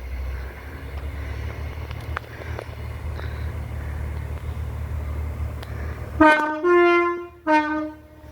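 Diesel train departing with a steady low engine rumble, then its two-tone horn sounds three short blasts near the end, the middle one higher in pitch, as a toot for the onlooker.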